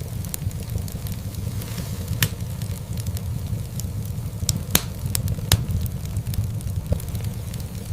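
Wood fire crackling in a fireplace: a steady low rumble of the flames with scattered sharp pops and snaps, a few louder ones around the middle.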